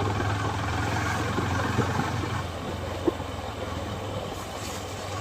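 Motorcycle engine running with a steady low hum, over hissing road and wind noise; the hum eases off about halfway through.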